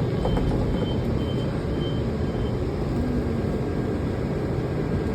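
Steady low rumble of a Washington Metro 7000-series railcar running. A faint high beep repeats about twice a second for the first couple of seconds.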